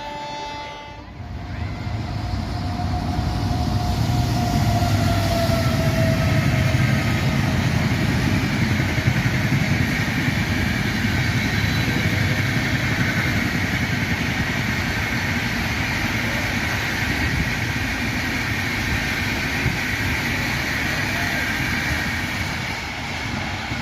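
A horn blast cuts off about a second in, then a Rajdhani Express train passes at speed: a loud, steady rush and rumble of coaches going by, with a faint high whine in the middle.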